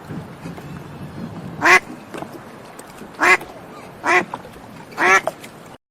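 An animal giving four short, nasal, quack-like calls, spaced roughly a second apart, over a faint steady background.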